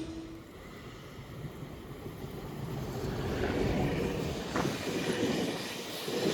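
Roslagsbanan narrow-gauge electric train running on the rails: a low rumble that swells and then eases off, with a single sharp click about four and a half seconds in.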